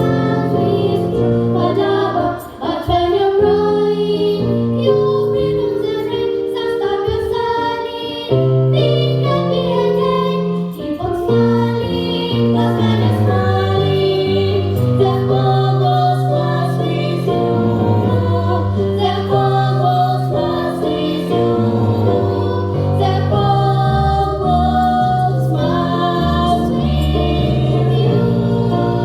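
A small vocal ensemble singing a swing-style song together over keyboard accompaniment that keeps a steady walking bass line.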